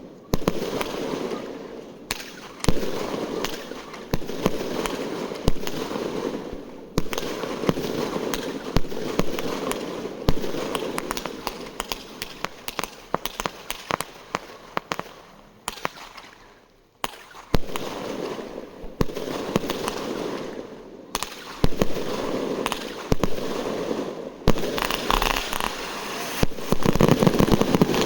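Fireworks going off in a continuous run: sharp bangs every second or so over steady crackling. There is a short lull a little past halfway, then a dense, loud stretch of crackling and bangs near the end.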